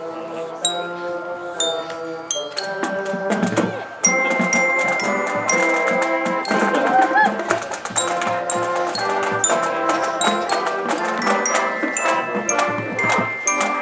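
Marching band playing a tune, with ringing glockenspiel-like mallet notes over held band notes; the full band comes in louder about four seconds in.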